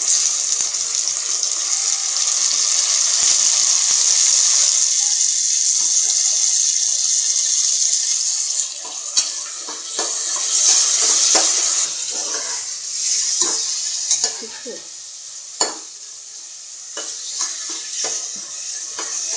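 Chopped tomatoes and green chillies sizzling in hot oil with fried onions in an aluminium pressure cooker, stirred with a spatula. The sizzle is loud and steady for the first eight seconds or so, then eases off under scattered knocks and scrapes of the spatula against the pot, the sharpest about fifteen seconds in.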